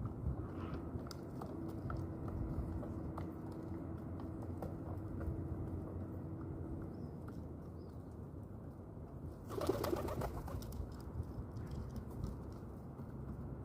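Pigeons cooing low while feeding, with scattered light taps throughout. About ten seconds in comes one short, noisy burst.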